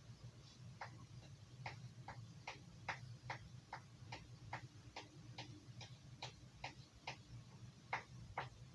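Carving knife being sharpened: light, quick clicking strokes of the blade on the sharpener, about two to three a second, faint and very regular.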